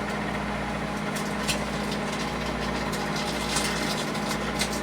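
Microwave oven running with a steady low hum, while the blood heating inside sizzles with scattered sharp crackles and pops.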